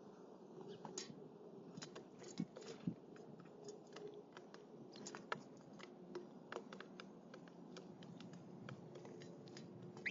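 Faint, irregular sharp clicks and cracks, several a second, of northern cardinals cracking seeds at a feeder.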